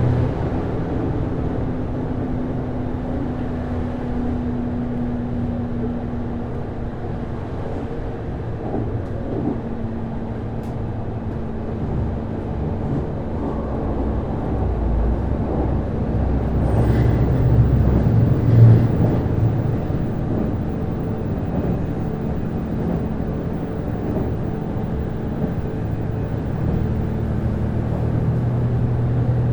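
Interior running sound of a JR East HB-E210 series hybrid railcar, with its Komatsu DMF15HZB-G diesel engine-generator and Hitachi IGBT-VVVF traction drive. A steady low hum runs under rail and body noise, and it grows louder around two-thirds of the way through.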